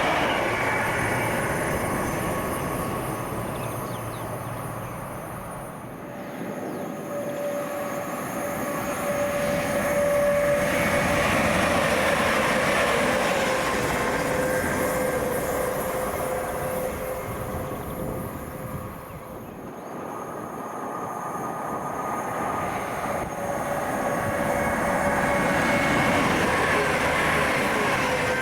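A train running through the station, its rumble and wheel noise swelling and fading in several waves, with a steady whine underneath.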